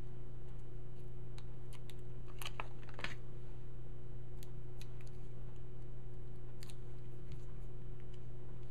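Paper and cardstock pieces being handled at a craft table: a few scattered small clicks and rustles, over a steady electrical hum.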